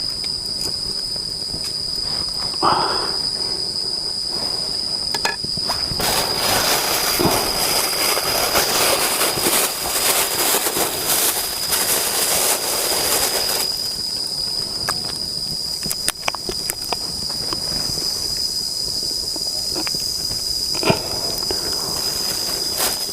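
Hot oil and meat sizzling and crackling in a pan, loud from about six seconds in and dying down after several seconds, over the steady high drone of insects.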